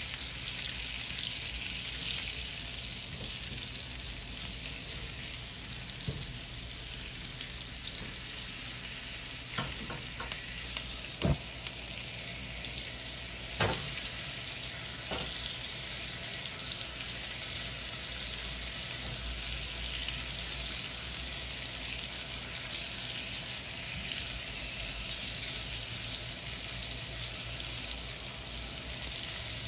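Onion halves sizzling steadily in fat on a hot ridged grill pan. A few sharp clicks and scrapes come from a spatula against the pan about a third to halfway through, as the onions are turned.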